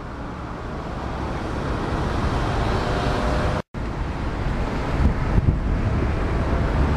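Steady rumbling outdoor noise, growing slightly louder, broken by a brief cut to silence about halfway through.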